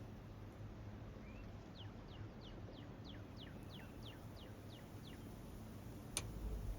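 A small songbird singing a series of about eleven quick, down-slurred whistled notes, roughly three a second. A sharp click follows near the end.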